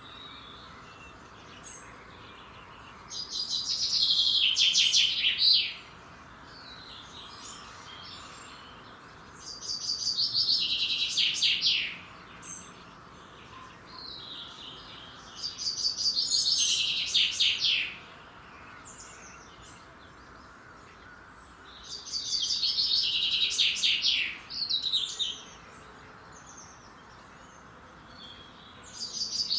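A single songbird singing a song of about three seconds that falls in pitch as it goes, repeated about every six seconds: four full songs, with a fifth starting near the end.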